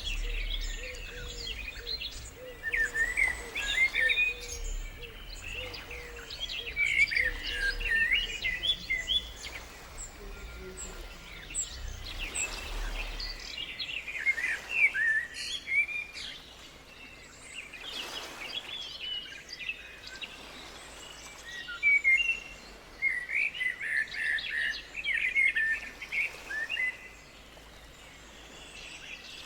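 Several small birds chirping and twittering, with quick overlapping calls that come in busy clusters every few seconds and short lulls between them.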